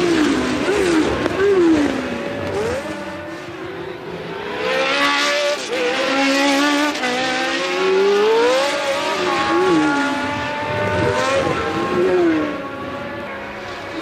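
Several early-1980s Formula One cars running at race speed, their engine notes overlapping, each rising and dropping repeatedly through revs and gear changes as the cars pass.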